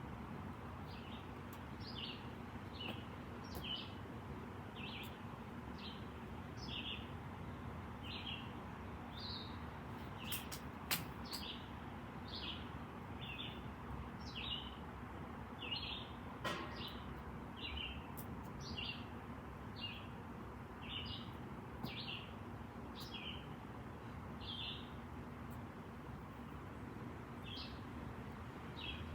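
A small bird chirping over and over, about once a second, each chirp a short note dropping in pitch, with a short pause near the end. A few sharp pops stand out, the loudest about eleven seconds in, over a steady low background rumble.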